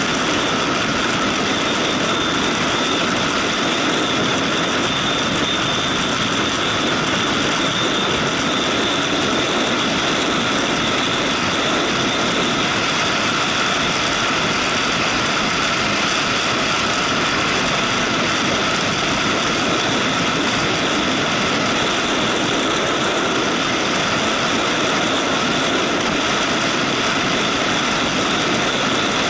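Motorcycle under way at a steady speed: the engine running evenly under a steady rush of wind and road noise, with no revving or gear changes.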